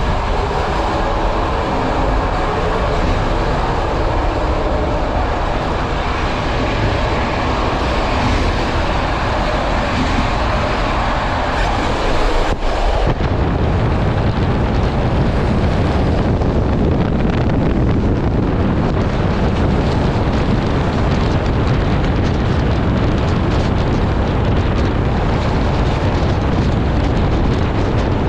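Moving passenger train heard from on board through an open window: steady running noise of wheels on rail. About halfway through the sound changes abruptly to a heavier low rumble, with wind buffeting the microphone.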